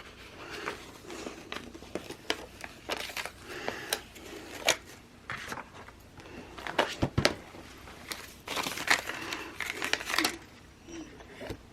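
Paper sticker sheets and planner pages being handled: crinkling and rustling with scattered light clicks and taps, and a sharper knock about seven seconds in.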